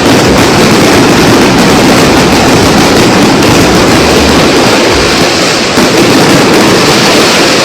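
New Year's fireworks display going off in a dense, continuous barrage of bangs and crackles, very loud.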